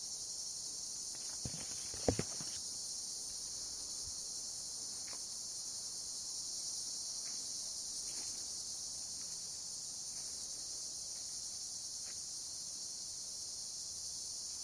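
Steady high-pitched insect chorus, with two sharp clicks about two seconds in and a few faint ticks later.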